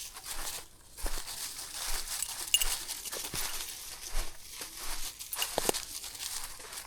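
Footsteps crunching and rustling along a countryside path, with foliage brushing.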